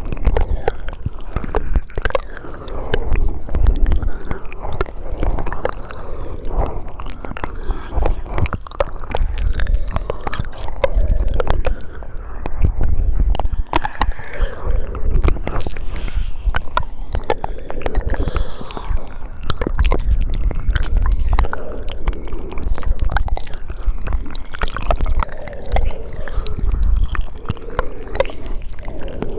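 Close-miked ASMR mouth sounds: a dense stream of wet clicks, smacks and chewing-like noises, with a low rumble underneath.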